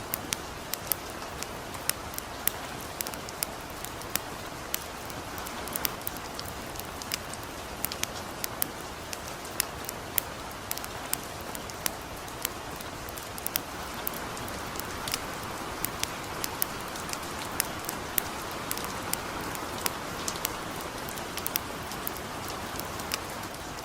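Steady light rain hissing, mixed with the irregular sharp crackles and pops of a campfire, a few per second.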